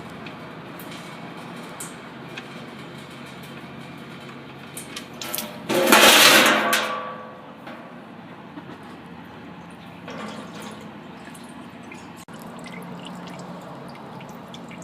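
Used engine oil pouring from the oil pan's drain hole into a drain bucket in a steady stream, with a louder rush of splashing about six seconds in that lasts a second or so.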